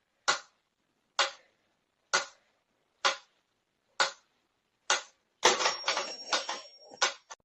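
A series of short, sharp taps or knocks, evenly spaced about one a second, with silence between them. About two thirds of the way in they give way to a quicker, denser flurry of knocks with a thin high tone alongside.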